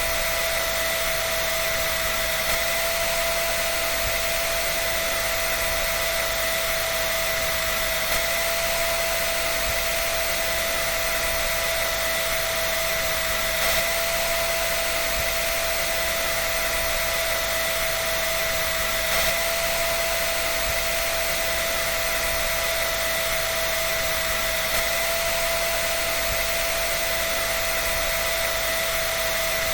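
Electric dryer running steadily: a constant rush of blown air with a steady high motor whine over it.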